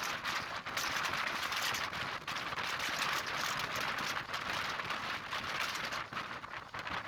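Passenger train running, heard from on board: a steady rushing noise with crackles and brief dips.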